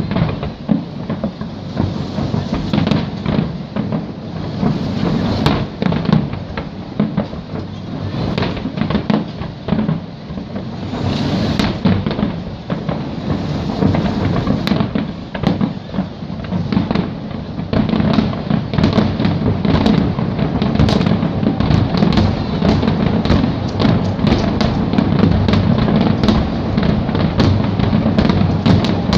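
Fireworks grand finale: a rapid, overlapping barrage of shell bursts and crackling bangs over a continuous low rumble, growing denser over the second half.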